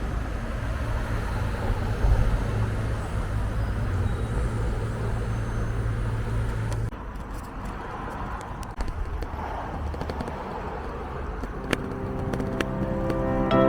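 Outdoor street ambience from a bike ride, starting with a steady vehicle rumble. About seven seconds in the sound cuts abruptly to quieter surroundings with scattered clicks and faint voices. Music fades in near the end.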